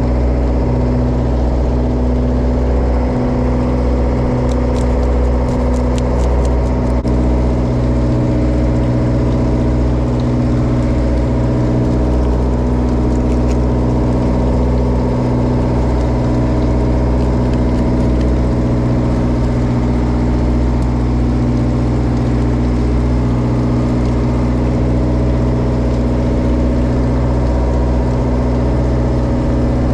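Japanese bottom trawler's marine diesel engine running steadily, an even low drone with no change in speed.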